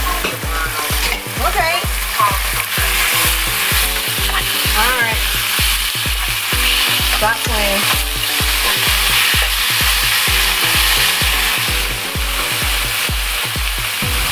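Raw chicken strips sizzling as they fry in a nonstick skillet, stirred now and then. Background music with a steady heavy beat plays throughout, and the beat stops at the very end.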